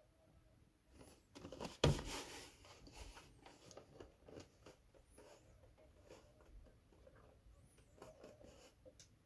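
Handling noises: a sharp knock about two seconds in, followed by scattered light clicks, taps and rustling.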